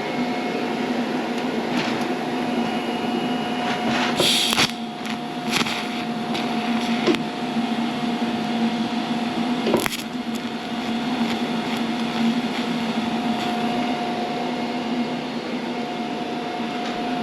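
TIG welding on a steel seat-frame bracket: a steady electrical hum from the welder, whose higher tone drops out and returns as the arc stops and restarts. A few sharp clicks or knocks come through it, the loudest about four seconds in and another about ten seconds in.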